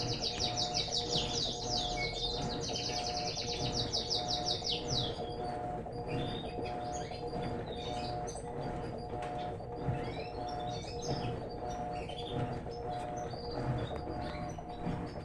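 Small birds chirping: a fast run of high, rapidly repeated chirps for about the first five seconds, then scattered chirps. Underneath is a steady hum with a fainter tone pulsing at an even beat.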